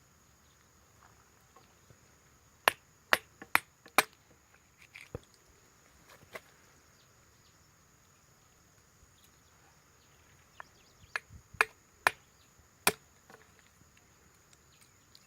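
Sharp chopping strikes, like a blade cutting into wood. A quick run of four comes about three seconds in, and a few more, three of them loud, come near the end.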